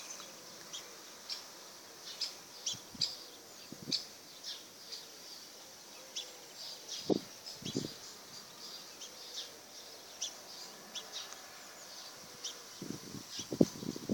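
Small birds chirping in many short, high calls throughout. A few short, low thuds come about halfway through and again near the end.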